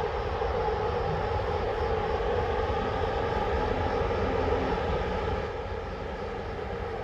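Railway locomotive running with a steady drone, easing slightly about five and a half seconds in.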